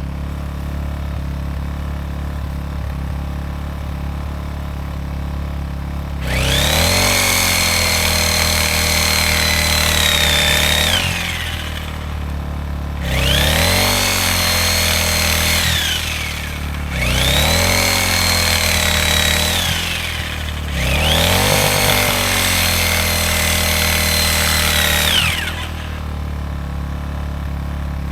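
A corded reciprocating saw (Sawzall) cutting through a small tree trunk in four long bursts with short pauses, its motor whining up at each start and winding down at each stop. Underneath, a small gas inverter generator runs steadily, its engine speeding up each time the saw draws power.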